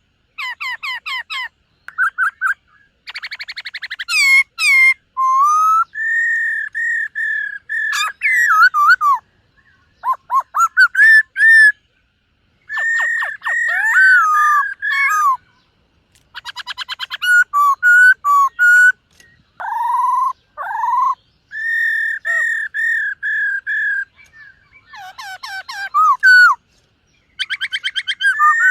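Black-throated laughingthrush singing a string of loud whistled phrases, clear ringing notes and gliding calls mixed with rapid trills, each phrase broken off by a short silence.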